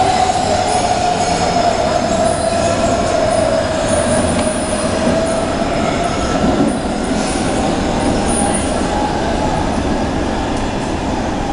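A DB class 474 S-Bahn electric train pulling out of an underground station and running away into the tunnel: steady wheel-and-rail running noise with a whine that slowly falls in pitch over the first half and fades, the whole echoing under the station roof.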